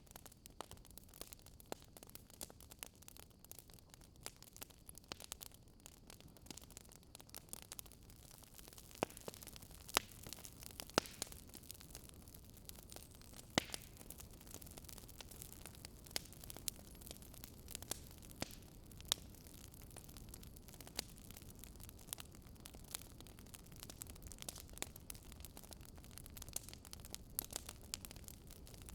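Wood fire burning in a fireplace, crackling with irregular sharp pops over a faint hiss, with a few louder snaps.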